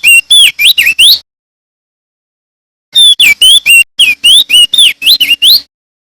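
Male crested white-eye (opior jambul) singing: two loud phrases of rapid whistled notes, each note slurring down or up, the first phrase ending about a second in and the second starting about three seconds in and lasting nearly three seconds.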